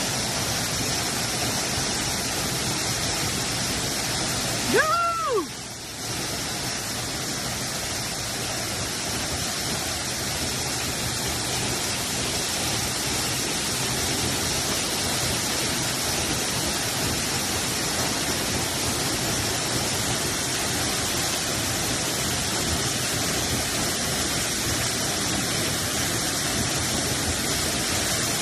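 Waterfall rushing in a steady, even roar of water. About five seconds in, a brief pitched call rises and falls over it, and the water noise drops for about a second.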